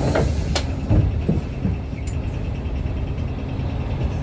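Isuzu Erga city bus's four-cylinder diesel engine and road noise as a steady low rumble inside the cabin, with a couple of sharp knocks about half a second and a second in.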